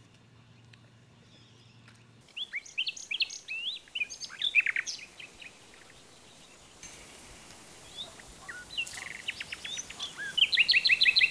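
Birds chirping and calling after a near-silent first two seconds, with short rising and falling chirps and a fast run of repeated chirps near the end.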